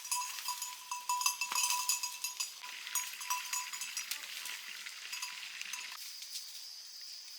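A small metal bell clinking over and over, stopping about six seconds in.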